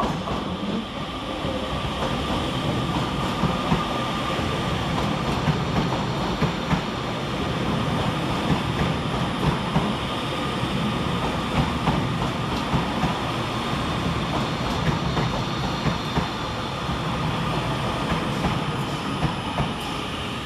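Two coupled Class 331 electric multiple units running through the station on arrival, a steady rumble of wheels on rail with repeated sharp clicks as the wheels pass over rail joints.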